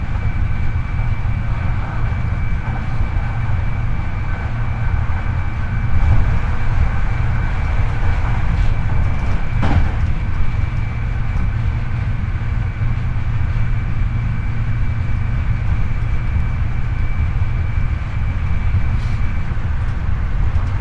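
Hankyu 8300 series electric train running at speed, heard from the floor inside the car above a motored bogie: a steady heavy rumble of wheels on rail with a steady high whine from the Toyo IGBT-VVVF traction drive, a brief sharp clatter about ten seconds in, and the higher whine fading out near the end. This bogie is one the recordist describes as making abnormal noise.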